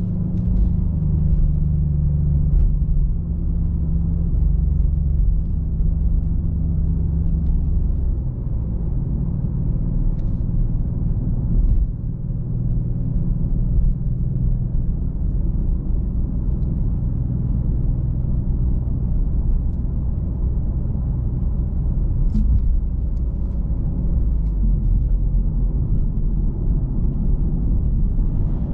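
Maserati GranTurismo Modena's twin-turbo 3.0 V6 Nettuno engine running at a steady cruise under a low, continuous road rumble. The engine note changes about eight seconds in and then holds steady again.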